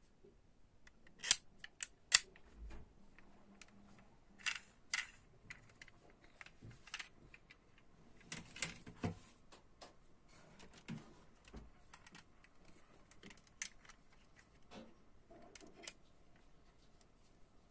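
Irregular small clicks and taps of diecast metal toy cars and their plastic packaging being handled, the two sharpest about one and two seconds in.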